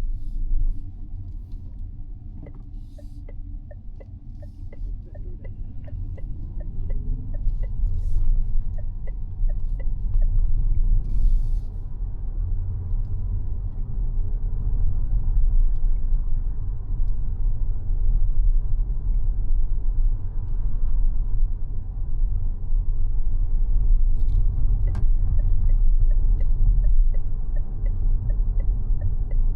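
Mazda 6e electric sedan driving, its low road and tyre rumble growing louder over the first dozen seconds as it gains speed and then holding steady. A turn-signal indicator ticks about twice a second for several seconds early on, and again near the end.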